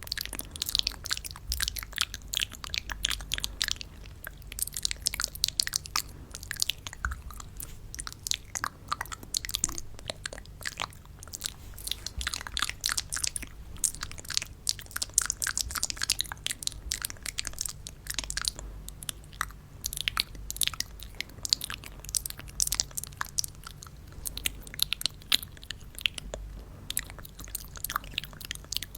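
Close-miked crisp crunching and crackling: dense, irregular runs of sharp little clicks throughout, pausing briefly now and then.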